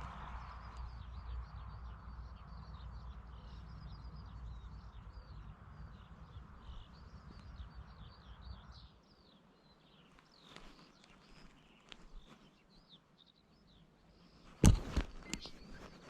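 Small birds chirping in quick, repeated short calls, over a low rumbling noise that stops about nine seconds in. Near the end, one sharp knock, the loudest sound, is followed by a few smaller clicks and rustles.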